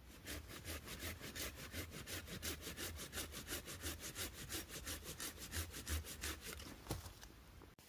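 Hand saw cutting wood in quick back-and-forth strokes, about five a second, stopping about seven seconds in.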